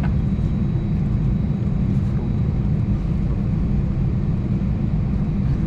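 Steady low rumble of cabin noise inside an Airbus A320neo, even in level throughout.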